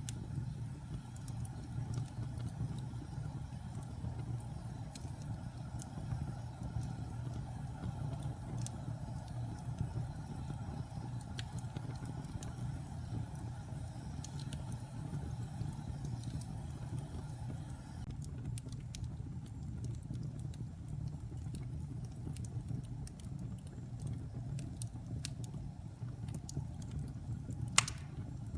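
Wood fire burning in a fireplace: a steady low rumble of flames with scattered crackles and one sharp pop near the end.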